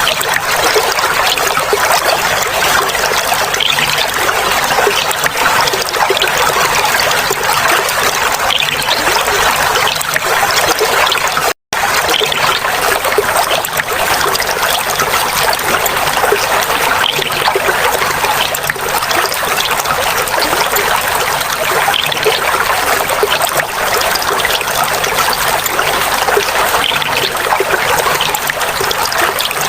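Clear flowing water trickling and splashing steadily, with a split-second dropout about twelve seconds in.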